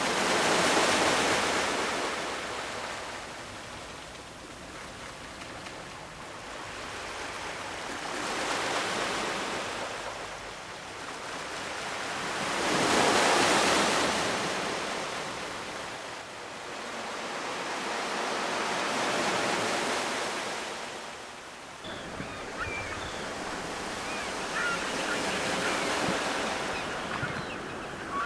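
Ocean surf: waves washing in and drawing back in slow swells, one about every five or six seconds. About three-quarters of the way through the sound changes abruptly, and faint short high squeaks come over the surf.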